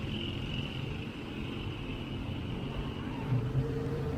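Street traffic: vehicles running with a low, steady rumble, and a steady high hiss that fades about three seconds in.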